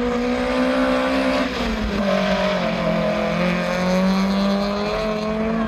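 Small hatchback's engine accelerating hard at full throttle down a drag strip. Its pitch climbs, drops sharply at a gear change about one and a half seconds in, climbs again, and drops at a second shift near the end.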